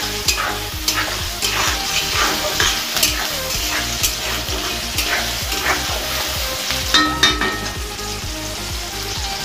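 Chopped onion, tomato and chillies sizzling in hot oil in a pan as a spatula stirs them, knocking and scraping against the metal every half second to a second. A louder metallic clink rings out about seven seconds in.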